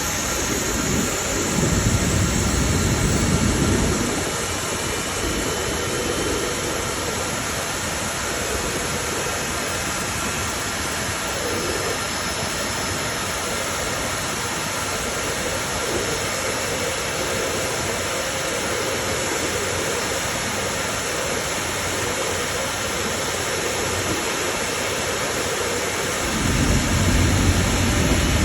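Rolls-Royce Trent 800 turbofan on a Boeing 777 running: a steady, even rush of jet noise. A deeper rumble under it drops away about four seconds in and comes back near the end.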